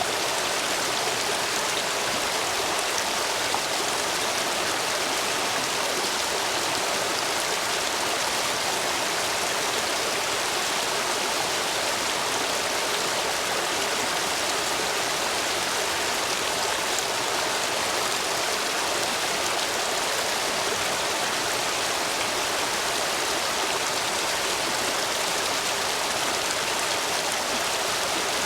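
Stream water flowing steadily through gaps between stepping stones, a constant even rush. The stream is running high after heavy rain.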